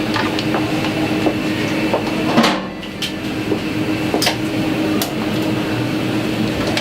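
Plastic parts of a small coffee machine clicking and knocking as they are unclipped and lifted out, the loudest knock about two and a half seconds in, over a steady low hum.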